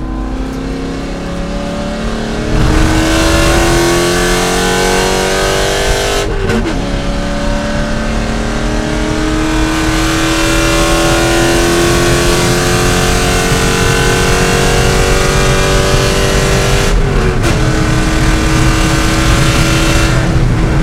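C5 Corvette V8 racing at full throttle, its note climbing steadily in pitch through the gears. It gets louder about two and a half seconds in, with quick upshifts about six seconds in and again about seventeen seconds in, then the engine note drops off near the end as the throttle is lifted.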